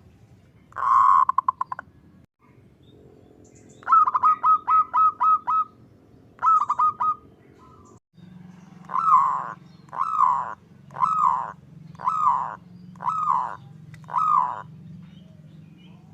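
Zebra dove (perkutut) calling: a short rapid rolling trill about a second in, then quick runs of short clipped coos, then six longer falling coos about a second apart.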